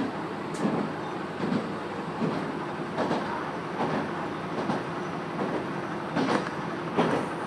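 Amagi Railway diesel railcar running at speed, heard from inside the cabin: a steady rumble of wheels and running gear with regular clicks as the wheels cross rail joints, a little more than one a second.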